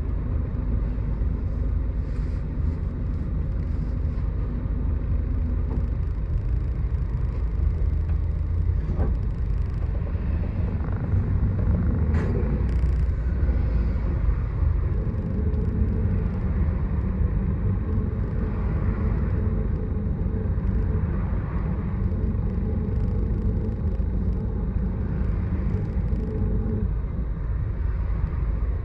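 Miyazaki Kotsu route bus under way: its engine runs with a continuous low rumble. A steadier engine note comes in about halfway through and drops away shortly before the end, and there are a few brief clicks.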